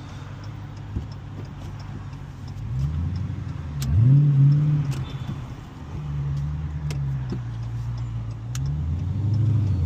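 2015 Dodge Challenger Hellcat's supercharged 6.2-litre Hemi V8 on the road. It runs steadily at first, then climbs sharply in pitch about four seconds in to its loudest and falls away again. It holds steady for a few seconds, then dips and rises again near the end as the revs rise and fall through the manual gearbox.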